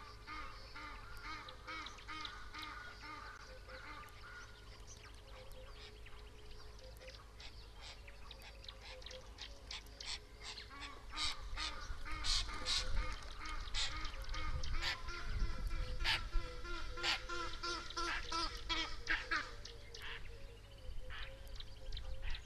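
Birds calling at the riverside: a run of repeated harsh, honking calls that grow louder and busier about halfway through, over a faint steady tone.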